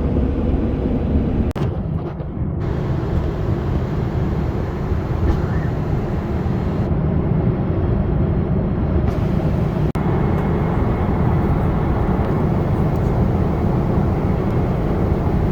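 Steady cabin noise of a Boeing 777-200ER in flight: engine and airflow noise heard from inside the passenger cabin, with two very brief dropouts.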